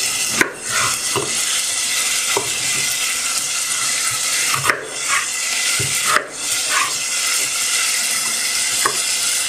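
Onions frying in hot oil with a steady sizzle, while a kitchen knife cuts a peeled potato on a bamboo cutting board, its strokes knocking on the board every second or so.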